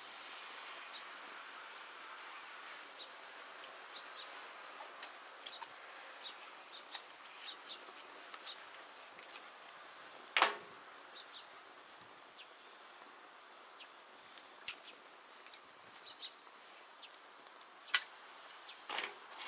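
Wood fire crackling: a soft steady hiss with frequent small irregular ticks and a few sharper, louder pops.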